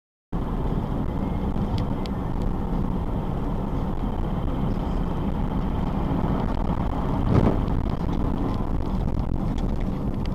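Steady engine and road noise of a car driving, with a single louder thump about seven seconds in.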